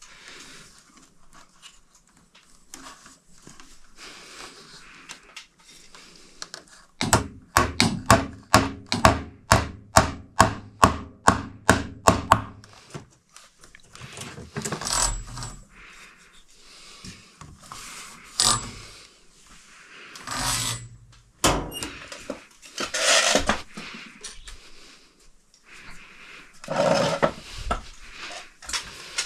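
Hand work with tools and hardware: a run of about twenty quick, evenly spaced knocks with a slight ring, about three or four a second, then scattered clunks, rubbing and scraping.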